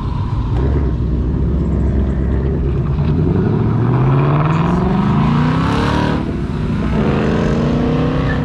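A car engine accelerating hard as the car pulls away: the revs climb for about three seconds, drop sharply with a gear change about six seconds in, then climb again in the next gear.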